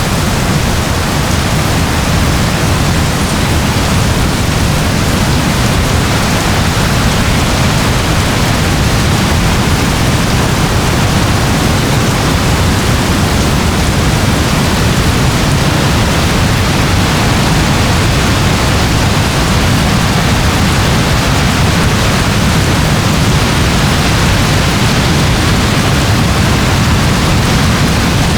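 Steady, unbroken rain: an even hiss with a low rumble underneath.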